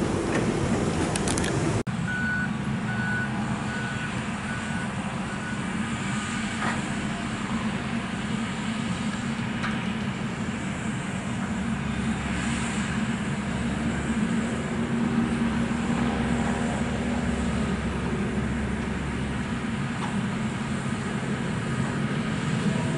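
Steady rumble of heavy vehicles and traffic at a construction site, with a backup alarm beeping in an even series for a few seconds starting about two seconds in: a construction vehicle reversing.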